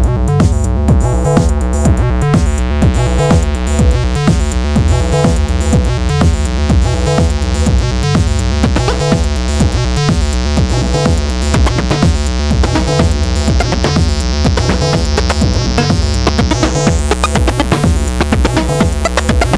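Make Noise eurorack modular synthesizer playing a sequenced acid-style synth line over a steady electronic drum beat. The filter opens gradually so the sound grows steadily brighter, with a sudden further brightening near the end.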